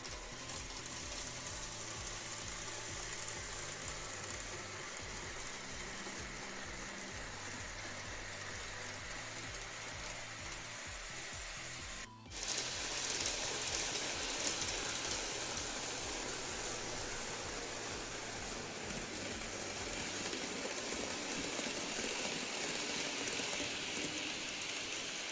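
N-scale model trains running on the track: a steady whirring rattle of the motors and wheels. It cuts out briefly about halfway through and comes back louder and hissier.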